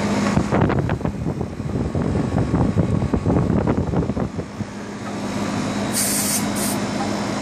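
A running AC condensing unit hums steadily while the liquid-line gauge hose coupling is worked loose from its service port, with loud irregular rattling and scraping. About six seconds in come two short sharp hisses of refrigerant venting as the hose comes off the port.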